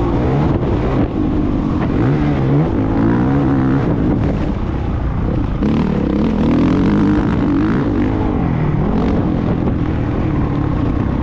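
Motocross bike engine running hard, its pitch repeatedly rising and dropping as it revs up and shifts or backs off the throttle.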